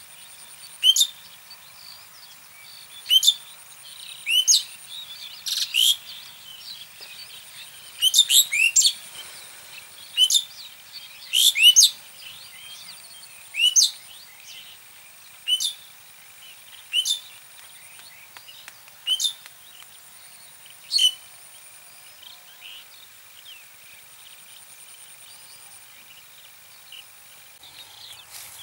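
A bird calling repeatedly with short, sharp, high chirps, about one every one to two seconds, falling silent a little over two-thirds of the way through. A faint steady high-pitched thin tone runs underneath.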